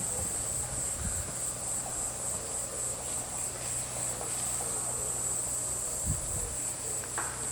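Crickets chirping in a steady high-pitched chorus with a faint regular pulse.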